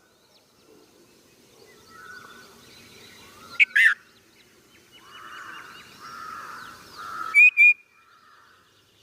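Bulbul giving short, sharp chirping calls: one loud burst of calls about three and a half seconds in and a double call near the end, with softer background sound in between.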